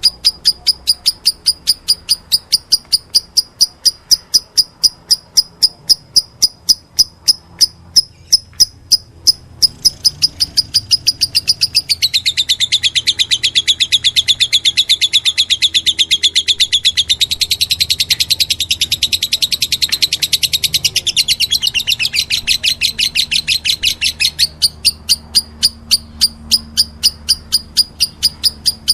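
Lovebirds chirping during regurgitation feeding: an even run of high, sharp chirps at about four a second. From about ten to twenty-four seconds in it thickens into a denser, fuller run of chirping, the begging that goes with being fed.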